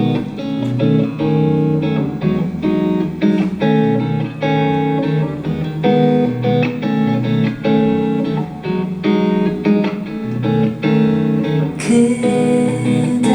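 Guitar intro of a song, played live: a steady run of picked notes and chords. A high hissing sound joins near the end.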